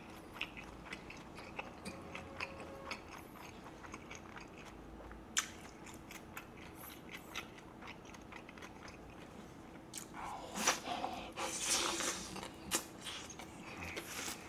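Close-miked chewing of a large, dense mouthful of tortilla wrap filled with chicken and vegetables, slow to chew down. Soft wet mouth clicks come first, with one sharper click about five seconds in. The chewing gets louder and busier from about ten seconds in.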